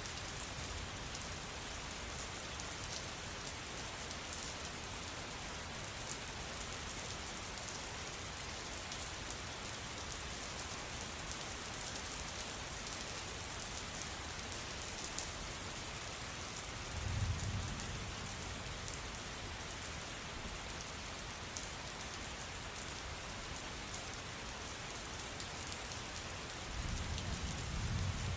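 Steady rain falling, an even hiss with individual drops ticking through it. Two brief low rumbles rise under it, about two-thirds of the way in and again near the end.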